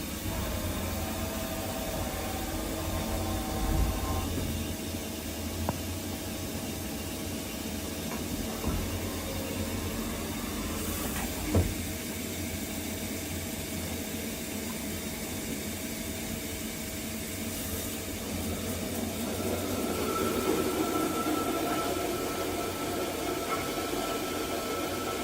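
1999 Mazak Integrex 35 CNC turn-mill centre running: a steady low hum with motor whines that shift in pitch and a few short clunks, the loudest about halfway through. A higher whine comes in about twenty seconds in.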